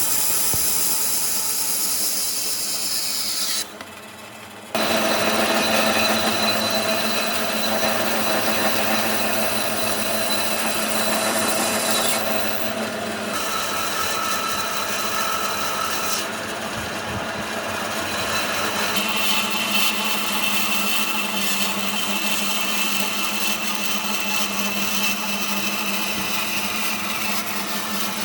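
Power tools running and cutting or sanding wood, a continuous loud noise whose pitch shifts several times. The sound drops out briefly about four seconds in.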